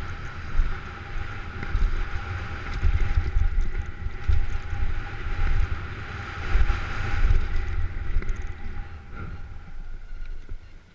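Wind buffeting the microphone of a camera carried on a downhill ride, a heavy uneven rumble with a faint steady whine above it. It eases off near the end and drops away sharply at the very end.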